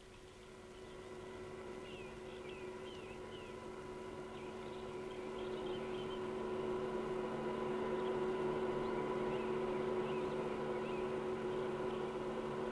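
Hindustan Ambassador car approaching on a dirt road, its engine a steady hum that grows gradually louder as it nears. A few short bird chirps come through a few seconds in.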